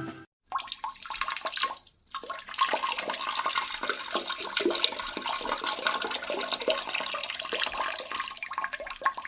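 Running water, a steady hiss full of small splashing ticks, breaking off briefly about two seconds in.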